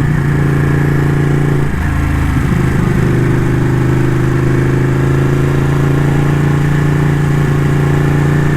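Ducati motorcycle engine running at a steady, even pitch while cruising, with a brief small wobble about two seconds in.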